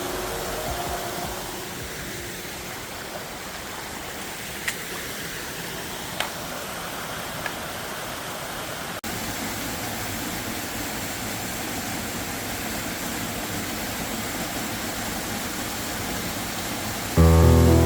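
Steady rush of falling water from the Fecioara Maria waterfall, with a few faint ticks. Music comes in loudly near the end.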